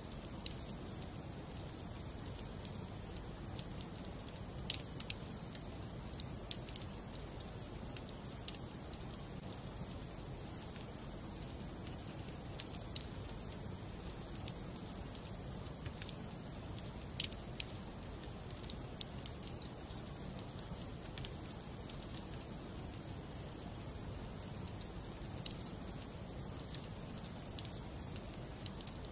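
Wood fire burning in a fireplace: a steady low rumble and hiss of the flames with irregular sharp crackles and pops from the burning logs, a handful of them louder.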